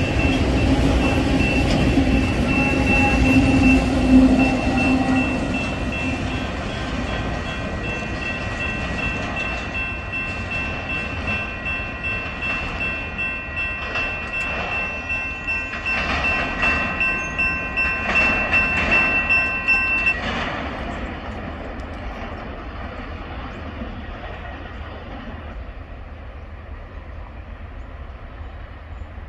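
Freight train of autorack cars rolling past and fading into the distance. Over it a railroad crossing's warning bell rings about twice a second, then stops about two-thirds of the way through, once the train has cleared the crossing.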